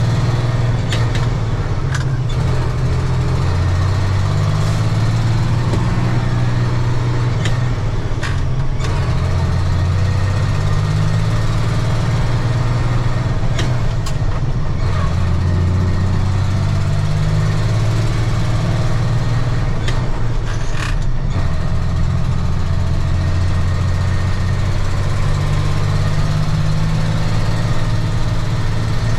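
Diesel engine of a 1995 Ford L8000 truck running loud and steady, its pitch stepping up and down a few times. A handful of short sharp clicks or rattles are scattered through it.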